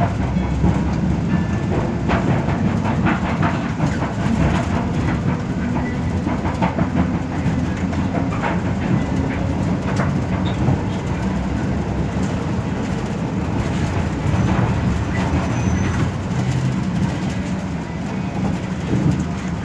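Cabin noise inside a moving express bus: a steady low drone from the engine and road, with frequent clicks and knocks from the body and fittings.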